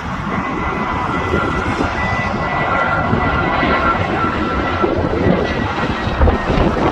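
Airbus A320 jet airliner on approach, its turbofan engines running with a steady whine over a broad rush that grows slightly louder.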